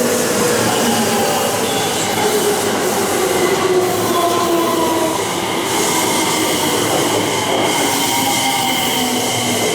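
Electric train running along a station platform: a loud, steady rumble of wheels on rail with high, held squealing tones and lower whining tones that drift slowly in pitch.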